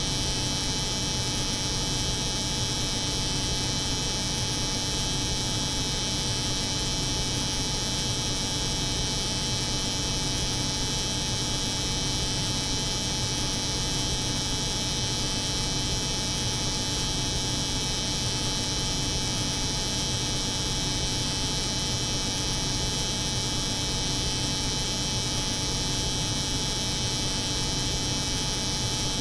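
An electric hair clipper buzzing steadily, layered over the hum of a cold room's refrigeration unit: a constant drone with a high whine on top that does not change.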